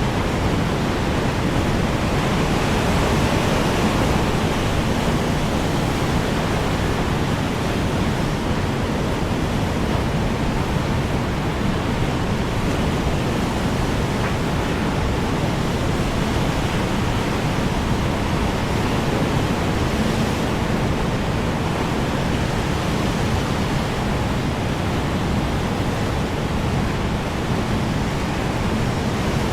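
Strong wind blowing steadily, a dense rushing noise with a slight swell a few seconds in.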